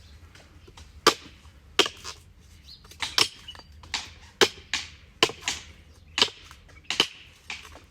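Sharp hand blade chopping at a date palm trunk, cutting away the old frond bases in about a dozen quick, irregular strokes.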